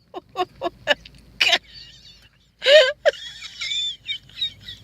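People laughing: a quick run of short laughs in the first second and a half, then a vocal exclamation and thin, wheezy, high-pitched laughter.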